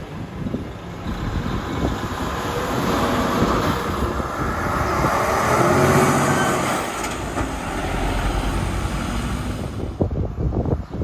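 A heavy truck driving past, its engine and tyre noise building to a peak about six seconds in and then easing off.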